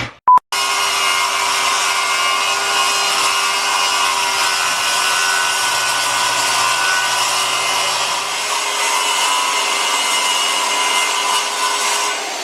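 Electric power saw cutting wood: the motor starts about half a second in and runs steadily under load with a constant whine, then is released near the end and its pitch begins to fall as it winds down.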